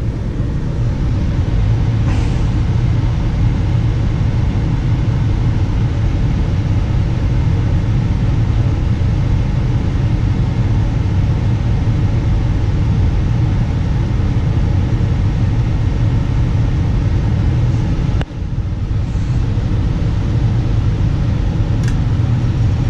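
Steady low mechanical rumble of a running machine, with a brief sharp drop about eighteen seconds in.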